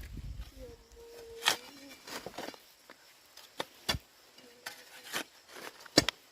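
A few sharp knocks: one about a second and a half in, two close together past the middle and two more near the end. A faint steady tone sits beneath them early on.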